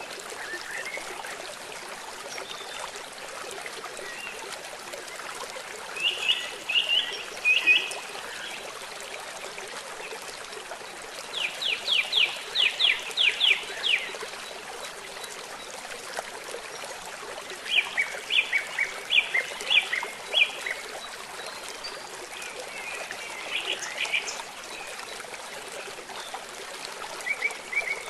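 Steady rush of running water with a songbird singing over it: five short phrases of rapid, evenly repeated high chirps, the longest a run of about eight quick strokes near the middle.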